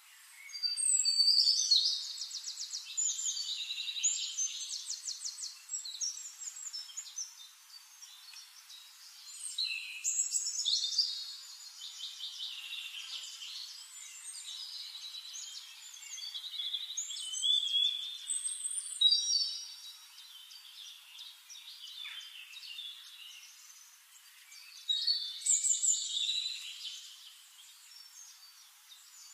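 Birds singing: rapid trills and chirps in several louder spells with quieter twittering between.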